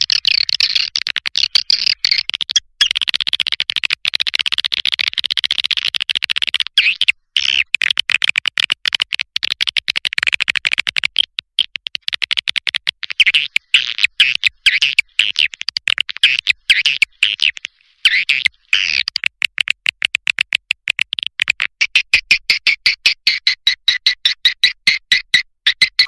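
Swiftlet call lure recording: high-pitched swiftlet twittering chirps made of rapid trains of clicks, with a few brief breaks. This is the kind of call played from swiftlet houses to draw edible-nest swiftlets in.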